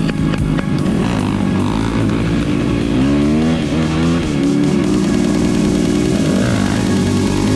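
Yamaha dirt bike engine running under way, its pitch swinging down and back up about three to four seconds in, with background music playing over it.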